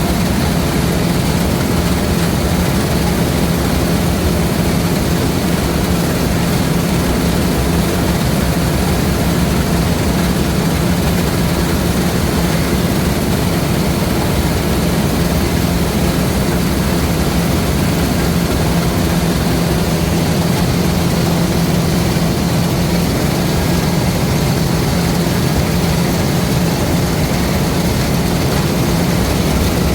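LOVOL RG130 EVO rice combine harvester running steadily under load, a constant engine-and-machinery hum on one unchanging pitch over a wash of mechanical noise.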